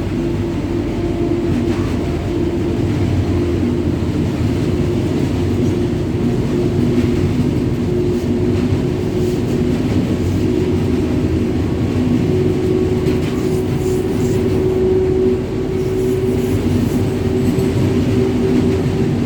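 WAG-9 three-phase electric freight locomotive running at speed: a steady rumble of wheels on track, with a steady two-tone hum held throughout.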